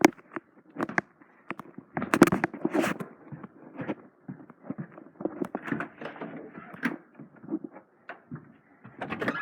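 A string of irregular knocks, clicks and rustles, with the loudest cluster about two to three seconds in.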